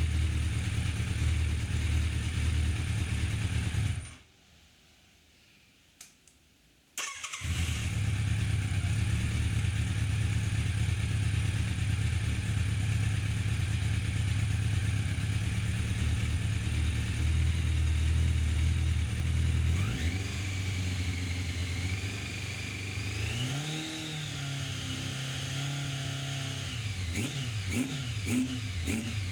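Yamaha FZ750 inline-four motorcycle engine running. It cuts out for about three seconds near the start, then runs again, with the revs rising and falling in the second half.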